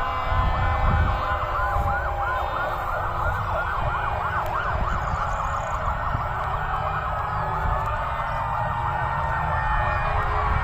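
Several fire engine sirens sounding at once, their fast up-and-down yelps overlapping, with a slower rising and falling wail through the second half. Low engine rumble from the passing vehicles sits underneath.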